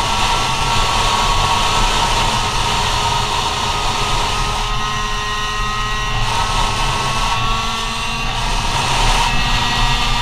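Go-Ped scooter's CR70 two-stroke engine running at high revs under way, a steady high-pitched drone that eases off slightly in pitch about halfway through and picks up again, over a low rumble.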